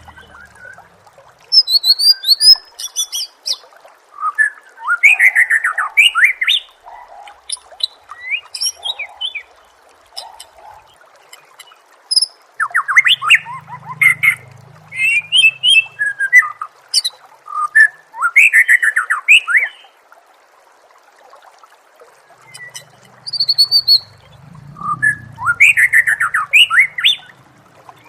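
Songbird song from a masteran tutor recording used to train captive songbirds: loud, varied phrases of fast sweeping whistles and high, thin trills. It comes in bursts of a few seconds, with short pauses, over a faint steady hiss.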